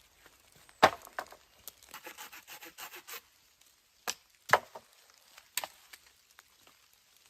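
Wood being worked by hand: a few sharp knocks and cracks, with a quick run of short scraping strokes between about two and three seconds in.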